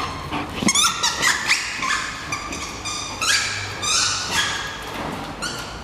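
German Shepherd dog whining and squealing with excitement: a run of short, high-pitched cries, some sliding up or down in pitch.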